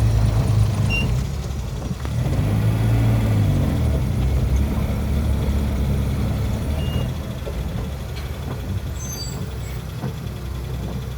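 Motor vehicle engine running with a heavy low rumble that eases off about seven seconds in, a few short high beeps over it.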